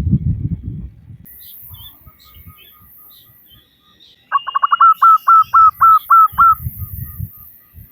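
Zebra dove (perkutut) calling: a loud run of about ten clipped cooing notes starting about four seconds in, quick at first and then more spaced out, the hen's call used to lure males. Faint chirps of small birds come before it, and low pulsing sounds lie under the start and the second half.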